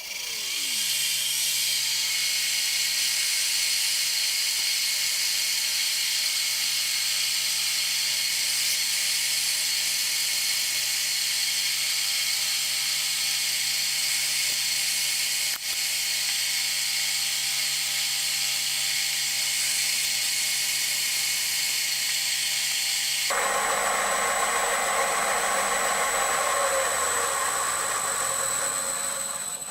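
Bridgeport milling machine's spindle running at a lowered speed, drilling steel with a 6.8 mm tapping drill for M8 threads. The steady run starts right at the beginning, and the sound turns coarser and noisier about 23 seconds in.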